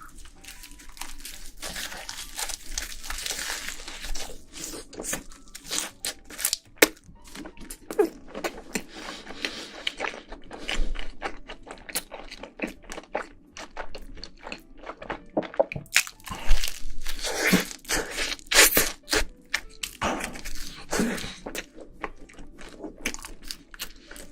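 Close-miked chewing and crunching of food, with many irregular crisp crackles and wet mouth sounds throughout.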